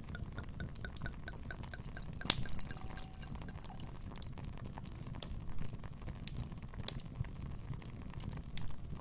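Wood fire burning in a fireplace: a low steady rumble with scattered crackles and one loud sharp pop a little over two seconds in. During the first few seconds a faint, regular ticking, like dripping, runs under the crackle.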